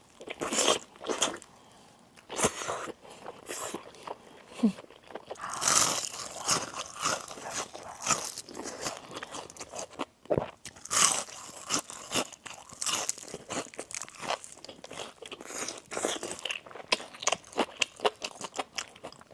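Close-miked biting and chewing of crispy fried chicken: a continuous run of sharp crunches through the crisp crust, with louder bites about 6 and 11 seconds in.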